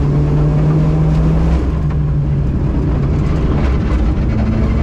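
Rally car engine running under steady load, heard from inside the car, with tyre and gravel noise beneath it. The engine note breaks briefly about a second and a half in, then settles at a slightly higher pitch near the end.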